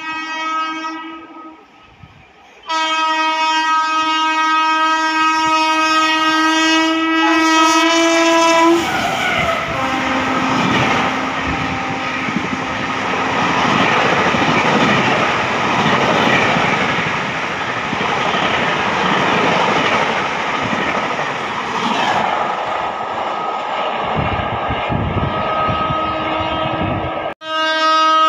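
A WAP7 electric locomotive's horn sounds a short blast, then a long blast of about six seconds, as an express approaches. The locomotive and its coaches then rush past at speed, with a loud rushing roar of wheels on rail. Right at the end another train's horn starts.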